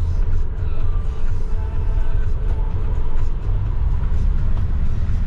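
Taxi's steady low road and engine rumble, with faint voices in the background.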